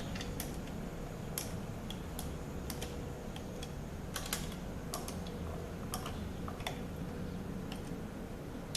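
Sharp, irregular metallic clicks from a hand tool driving T40 Torx bolts down to hold a ZF 6HP26 transmission's valve body in place, over a steady low hum.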